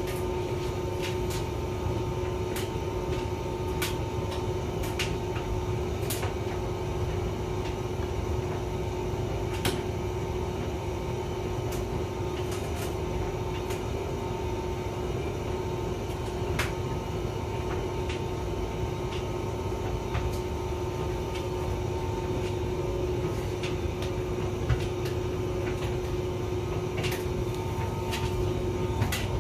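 Hotpoint vented tumble dryer running: a steady motor hum and drum rumble, with occasional light clicks and taps scattered through.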